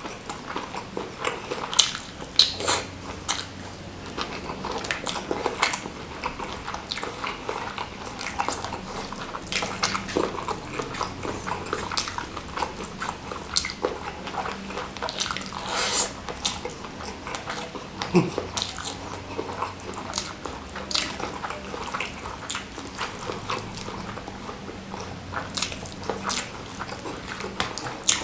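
Close-miked eating sounds: wet chewing and lip smacks of someone eating salted-squid sambal with rice, a steady run of irregular sharp clicks and smacks.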